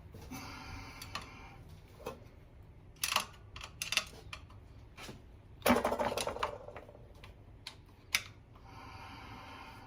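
Hand tools clicking and knocking against metal parts while an engine's front is taken apart, in scattered sharp clicks with a louder clatter about six seconds in.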